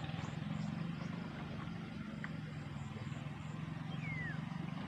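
Tractor engine running steadily at a constant speed while working a rice paddy. A short high chirp falls in pitch about four seconds in.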